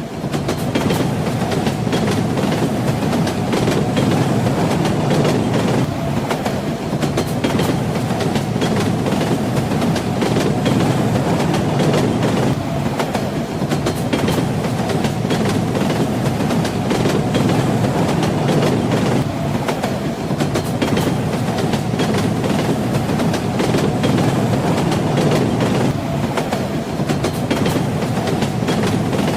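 Train wheels clattering over the rail joints on a moving train, over a steady rumble of the running carriage.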